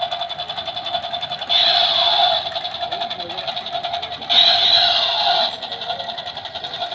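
Toy Apache helicopter's electronic sound effect: a steady, rapidly pulsing rotor chop, with louder bursts about a second long, each carrying a falling whistle, twice.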